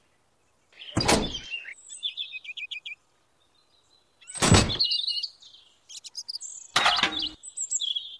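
Three short, loud thumps, about a second, four and a half and seven seconds in, with birds chirping quickly and high-pitched in the gaps between them.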